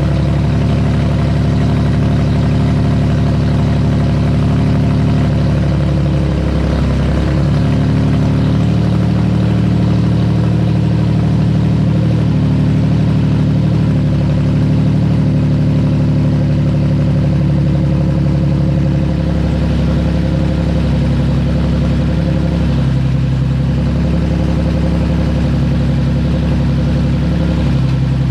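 Nissan VQ35DE 3.5-litre V6 running at idle through open headers, loud and steady, with small wavers in pitch. It runs on its own after vacuum leaks were fixed.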